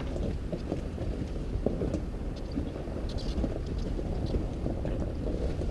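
A 4x4 driving slowly along a sandy, rocky dirt trail, giving a steady low rumble of engine and tyres. Small knocks and rattles are scattered through it.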